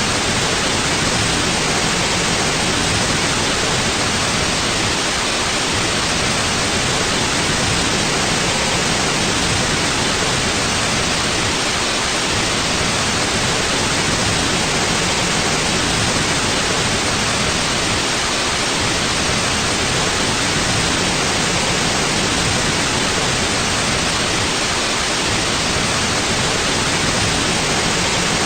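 Steady white noise: an even, unbroken hiss that stays unchanged throughout.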